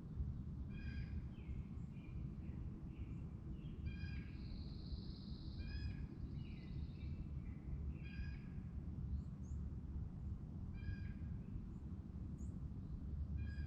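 A bird giving short, repeated calls about every two to three seconds, six in all, with a brief higher buzzy trill from another bird between the calls. Under it all runs a steady low rumble.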